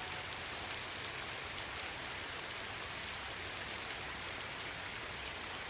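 Steady rain falling on a pond's surface, an even hiss with faint drop patter.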